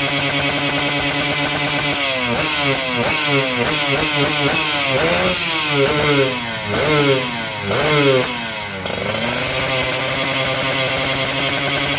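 Kawasaki Ninja SS single-cylinder two-stroke engine breathing through an Arrow carbon silencer, idling steadily, then blipped with a run of quick throttle revs from about two seconds in, the last few revving higher, before dropping back to idle about nine seconds in.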